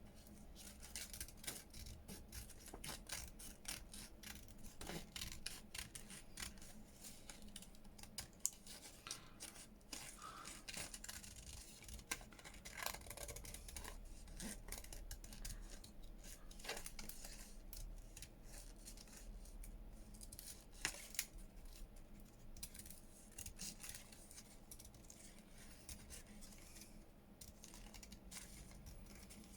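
Small scissors snipping paper in many short, quiet cuts, fussy-cutting around an intricate printed image.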